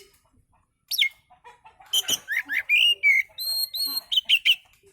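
Oriental magpie-robin (kacer) singing: a varied run of sharp whistles, quick rising and falling slurred notes and chirps, starting about a second in, with a few brief held whistles in the middle. This is the kind of kacer song that keepers play as a 'pancingan' to prompt their own birds to sing.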